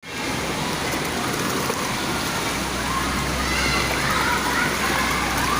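Steady rush of water with faint voices talking, the voices clearer from about halfway in.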